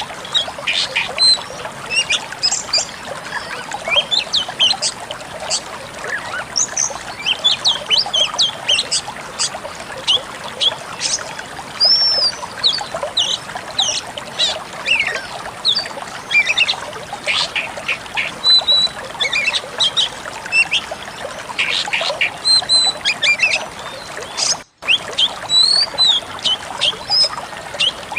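Pied bushchat (decu kembang) singing: quick, busy high chirps and short trills over a steady hiss like running water. The sound cuts out for a moment about three-quarters of the way through.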